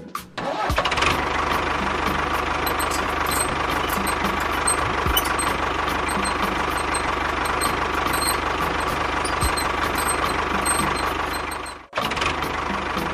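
Small motor of a homemade model tractor running steadily with a dense whirr, stopping abruptly near the end and starting again at once.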